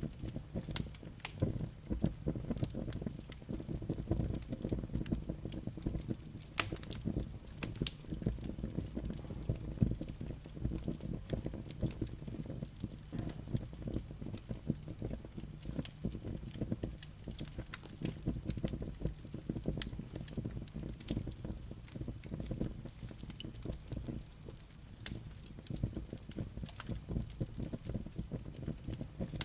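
Wood fire burning in a fireplace: a steady low rush of flames with frequent small irregular crackles and pops from the burning logs and embers.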